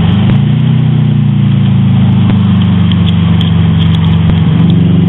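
Turbocharged Subaru WRX flat-four engine pulling the car along from inside the cabin. Its note rises slightly at the start, then holds a steady drone.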